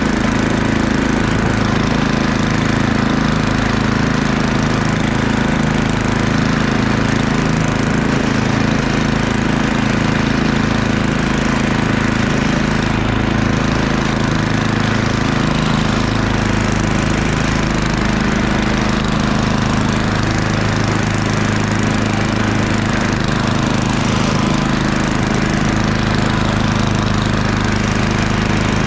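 Murray Ultra 8/27 snowblower's 8 hp single-cylinder engine running steadily at working speed.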